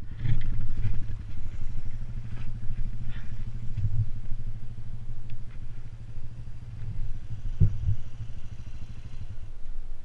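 ATV engine running steadily at a low, even pitch, with a few faint ticks and rattles over it.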